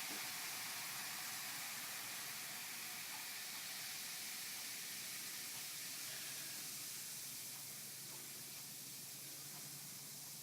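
Baking soda and vinegar fizzing as the homemade volcano erupts: a steady, soft hiss of bursting bubbles that slowly dies down.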